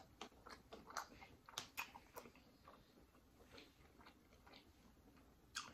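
Faint eating mouth-noises close to the microphone: a run of small wet clicks and smacks of chewing in the first couple of seconds, then a few scattered ones and a sharper click near the end.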